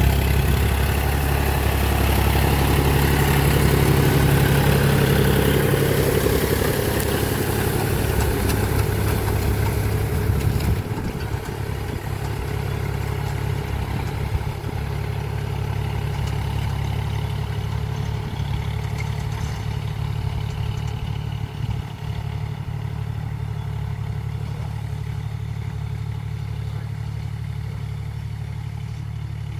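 Tractor engine running steadily at a low, even hum. It becomes quieter and duller about eleven seconds in.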